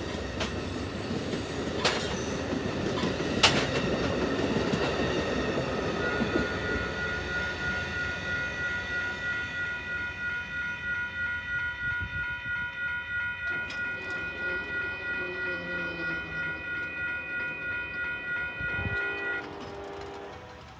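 Bilevel Amtrak Superliner passenger cars rolling past with wheel clatter and a couple of sharp clanks, fading away as the train clears. Over it, the crossing's WCH Type 1.5 electronic bells ding about twice a second, then cut off near the end.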